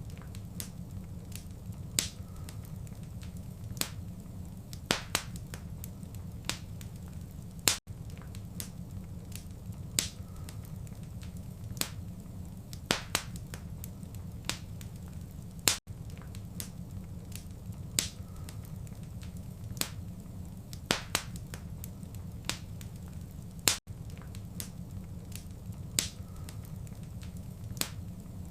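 Wood fire crackling in a fireplace: sharp pops and snaps over a steady low rumble. The audio is a short loop that repeats about every eight seconds, with a brief dropout at each seam.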